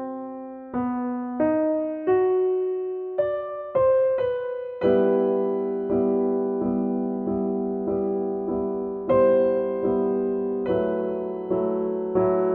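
Background music: a slow, gentle piano or electric piano piece, notes struck at an even unhurried pulse, filling out into fuller held chords about five seconds in.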